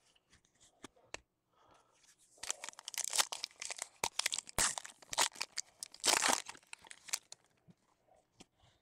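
Baseball card pack wrapper being torn open and crinkled: a run of crackly rips and crumples lasting about five seconds, starting a couple of seconds in.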